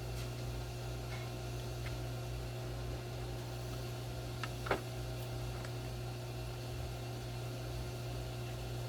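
A few light clicks of a small chainsaw being taken apart by hand, with one sharper click about halfway through, over a steady low hum.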